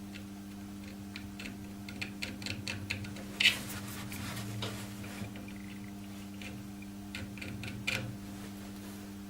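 Irregular light clicks and scrapes of a thin blade picking copper dust out of the slots between the commutator bars of a Ferguson TEF starter motor's armature, over a steady low hum.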